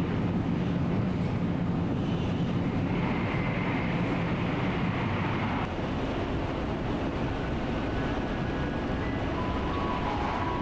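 Steady running noise of a Shinkansen Nozomi bullet train at speed, heard from inside the carriage: an even low rumble and rush with a steady low hum.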